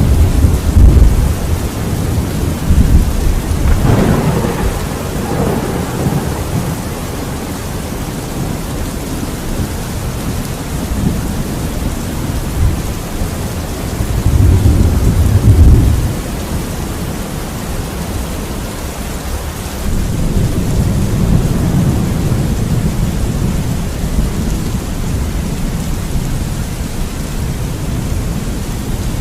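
Steady rain with rolling thunder: a loud rumble dying away in the first second or so, a sharper thunderclap about four seconds in, another rumble around fourteen to sixteen seconds, and a longer low rumble from about twenty seconds on.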